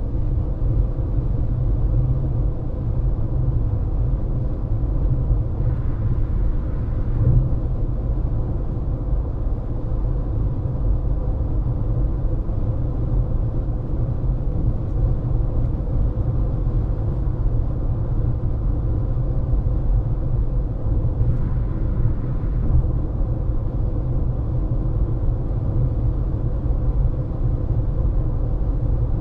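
Car driving at highway speed, heard from inside the cabin: a steady low road and engine rumble with a faint steady hum. Two brief swells of hiss come about six seconds in and about twenty-one seconds in.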